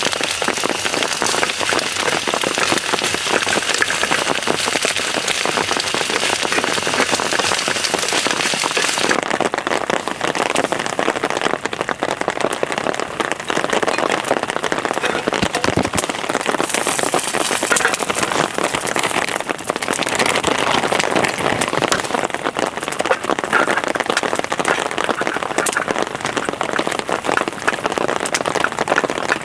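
Heavy rain falling, a dense steady hiss of many drops striking a surface. The highest part of the hiss drops away abruptly about nine seconds in.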